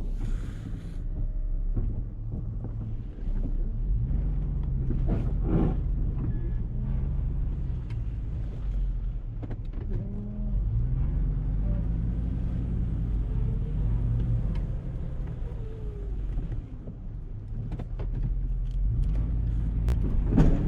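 Engine of a snow-plowing vehicle running under load, its pitch rising and falling as it pushes snow and changes speed, over a low rumble.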